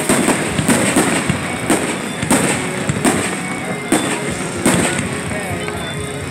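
Aerial fireworks shells bursting in a steady string of loud bangs, one about every half second to second.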